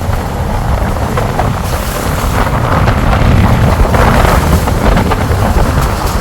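A car on the move: steady engine and road rumble, with wind buffeting the microphone.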